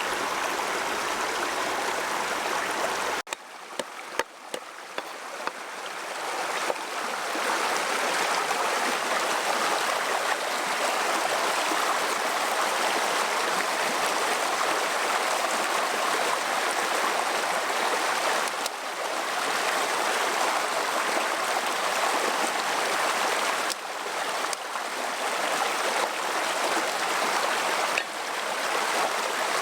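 Steady rush of flowing stream water. About three seconds in it drops off suddenly, a few small knocks follow, and then the flow rises back to a steady rush.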